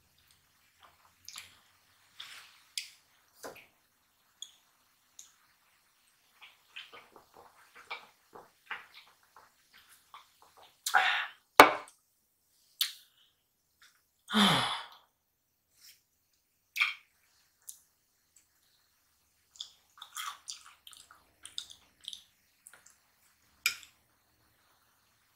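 A person chewing fried chicken close to the microphone: scattered wet smacking mouth sounds and small clicks, with a few louder ones about halfway through. Near the end a fork works meat off a breaded chicken drumstick.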